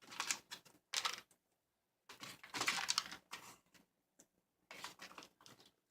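Hands handling small carburetor rebuild-kit parts and their packaging on a tabletop: four short bouts of clicking and rustling, the longest from about two to three seconds in.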